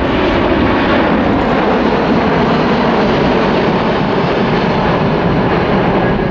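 Airbus A380 in flight, its four Engine Alliance GP7200 turbofans making a loud, steady jet rush.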